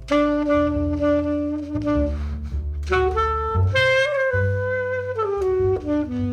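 Tenor saxophone playing a jazz ballad melody in long held notes over an upright bass. The saxophone comes in right at the start, after a few seconds of bass alone.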